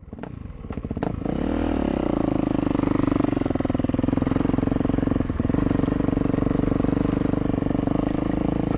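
Motocross dirt bike engine revving up about a second in, then running at steady high revs under throttle, with a brief dip partway through.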